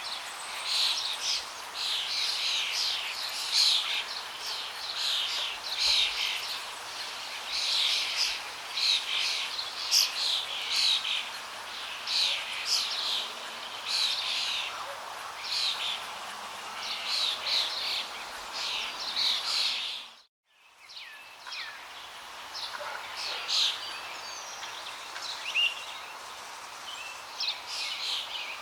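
Many small birds chirping and calling in a dense chorus over a steady rush of flowing water. About twenty seconds in, everything drops out to silence for a moment, then the water returns with fewer, sparser bird calls.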